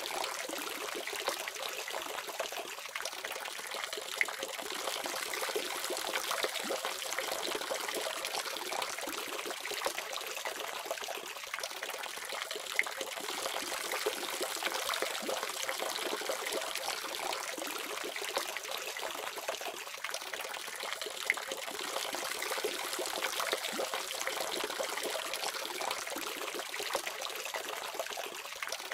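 Water running steadily from a tap, splashing and trickling, with small sharp spatters here and there.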